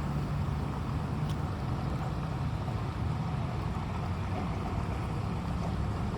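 Steady rushing noise of floodwater and rain in a flooded street, with a low rumble underneath.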